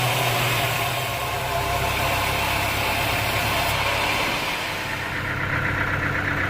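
An engine running steadily at idle, with a low hum. About five seconds in, a pulsing higher-pitched whine joins it.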